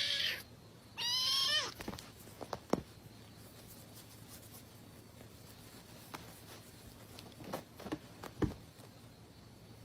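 A cat meowing twice: a long call that ends about half a second in, then a shorter one falling in pitch, followed by a few faint knocks.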